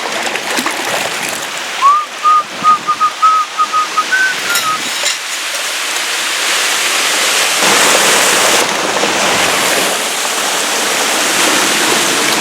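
Steady rushing of a mountain stream and waterfall, growing a little louder about 8 seconds in. About two seconds in, a quick run of about a dozen short, clear whistled chirps on nearly one pitch rises at the end and stops after about three seconds.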